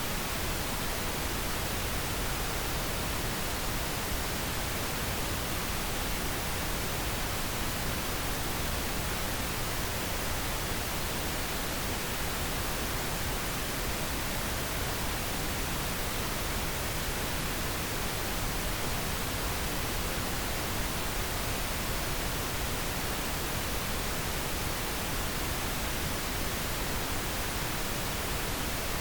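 Steady pink noise: an even, unchanging hiss across the whole range, played as a sleep aid for babies.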